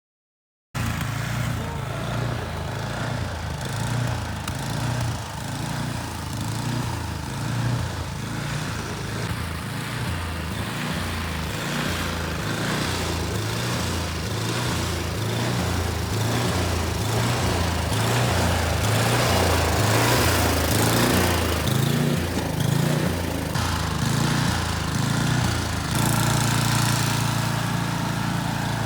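Snowblower's small engine running steadily with a low pulsing note. It cuts in abruptly about a second in, and its note changes near the end.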